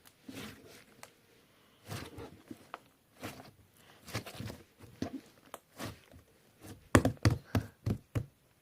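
Rainbow slime being squished and stretched by hand, making irregular sticky pops and crackles, with a quick run of louder pops about seven seconds in.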